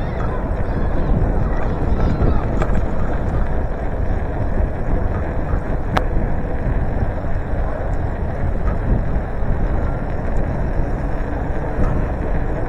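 Wind rumbling steadily over the microphone of a moving bicycle, with one sharp click about six seconds in.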